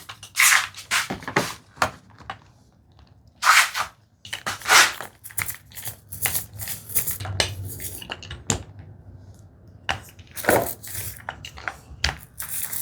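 Irregular short crinkles, scrapes and rustles of hands working a glue bottle and a plastic sheet while putting out white PVA glue.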